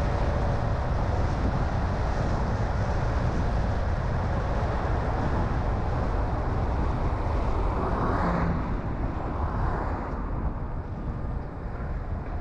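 A car driving on a road: steady engine and tyre rumble with road noise. About eight seconds in, a brief swell of whooshing noise rises and fades, and the level then drops slightly.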